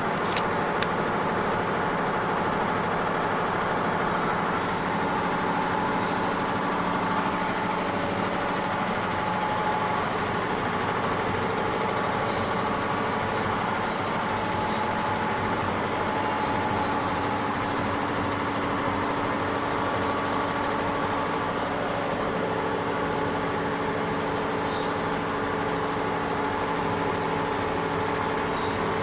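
Computerised embroidery machine running steadily, a continuous mechanical hum with a fast, even texture, and two short clicks near the start.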